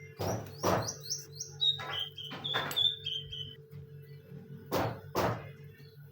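Caged songbirds chirping, a quick series of short high whistled notes about a second in, over a steady low hum and several brief swishing noises.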